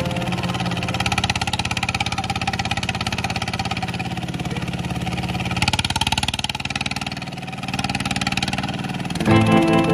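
Walk-behind tractor engine running steadily, dipping briefly about seven seconds in and then picking up again.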